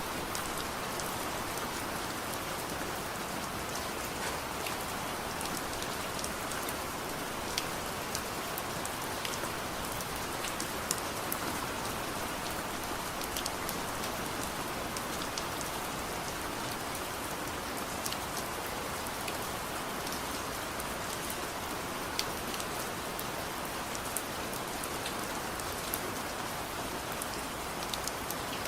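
Steady soft rain falling, an even hiss dotted with scattered sharp clicks and ticks.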